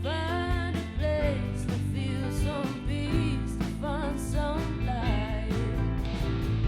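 A rock band playing an original song: drums, bass and electric guitar under a sliding, wavering melody line.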